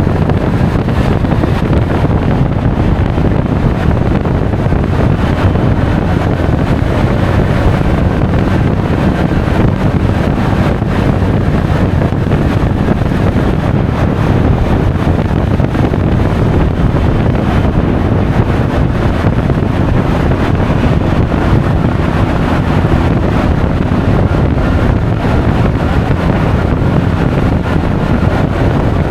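Steady rush of wind over an action camera's microphone while riding a Honda Forza 350 scooter, with the engine and road noise running beneath.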